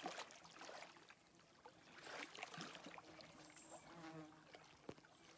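Faint sounds of water and a boat: a sharp splash or knock at the start, then small scattered splashes and ticks, over a faint insect hum.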